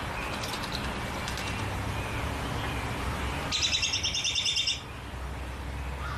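Songbird calling over a steady outdoor background: faint high chirps, then about three and a half seconds in a loud, rapid high trill of evenly spaced notes lasting just over a second.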